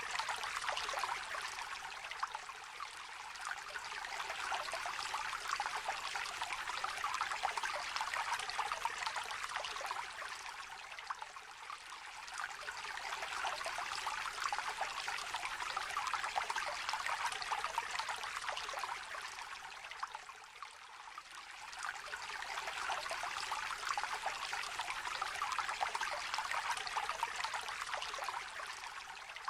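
A shallow stream trickling and babbling over stones, a steady gurgling of running water that swells and eases slightly every several seconds.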